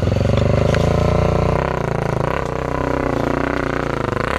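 Honda Tornado 250's single-cylinder four-stroke engine pulling a trail motorcycle up a steep, loose climb, held at moderate revs rather than revved hard. It eases off slightly about one and a half seconds in.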